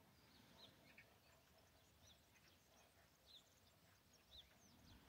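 Near silence, with small birds chirping faintly: short, high, falling calls about once a second.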